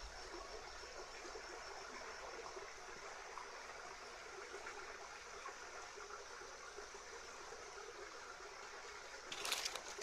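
Faint, steady rushing of a flowing stream. A short louder noisy burst comes near the end.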